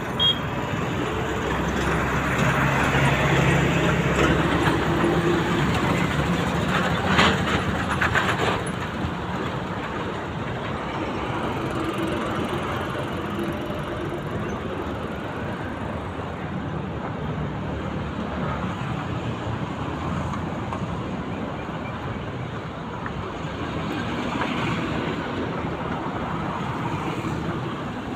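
Steady road traffic noise with a vehicle engine running, most prominent in the first several seconds, and a brief sharp knock about seven seconds in.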